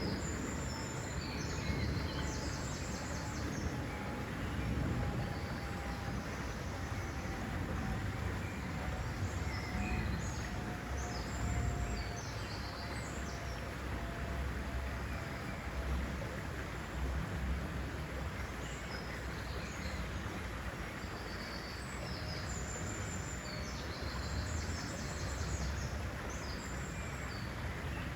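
Birds chirping in quick high-pitched twittering phrases, clustered near the start, in the middle and toward the end, over a steady rushing outdoor background with a low rumble. A faint tone slowly falls in pitch through the first half.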